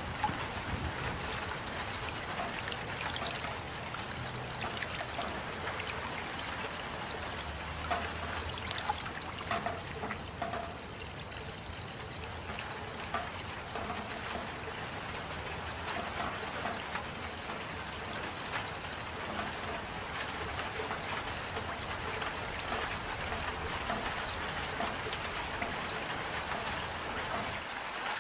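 Steady rain with water trickling and dripping, and single drops tapping here and there.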